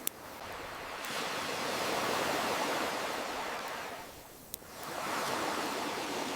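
Ocean waves washing in and drawing back, swelling and ebbing, with two sharp pops from a wood campfire: one at the very start and one about four and a half seconds in.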